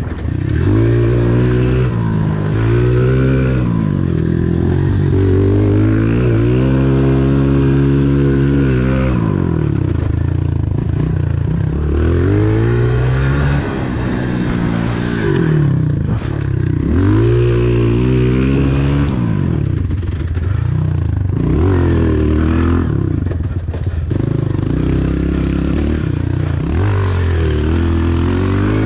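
A 2020 Honda CRF125 pit bike's single-cylinder four-stroke engine being ridden hard, revving up and dropping back again and again as the throttle is opened and shut through the gears.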